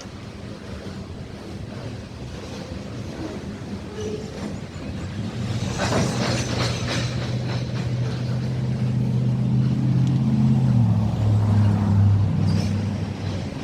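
Diesel locomotive of a Norfolk Southern train approaching, its low engine drone growing steadily louder. There is a short run of clicks about halfway through.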